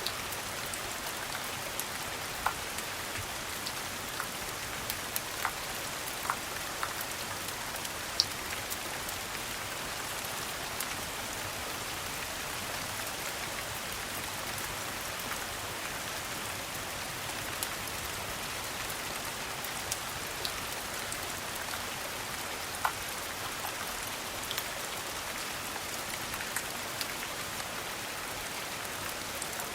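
Steady rain falling on a hard surface, an even hiss with scattered sharp pops and ticks here and there.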